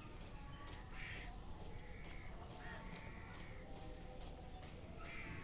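A parrot giving a few short, faint calls, spaced about a second apart.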